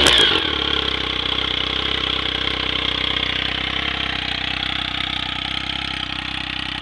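Triumph Speed Triple's three-cylinder engine through a customized R6 GP1 aftermarket exhaust, dropping back from a rev blip in the first half-second, then idling steadily.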